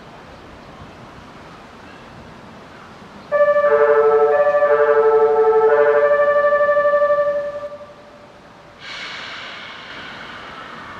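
Train Suite Shiki-shima (JR East E001 series) sounding its horn: a loud chord of several tones held for about four seconds, with some notes shifting partway. About nine seconds in, the rushing noise of the train passing starts.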